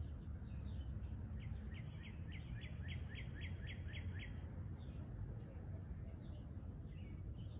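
A songbird sings a fast series of about a dozen downslurred whistled notes, about four a second, lasting roughly three seconds, while other birds chirp now and then. A steady low rumble runs underneath.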